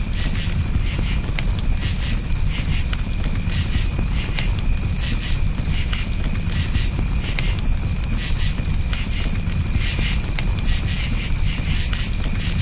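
Crickets chirping in steady pulsing trills over a campfire's scattered crackles and a constant low rumble.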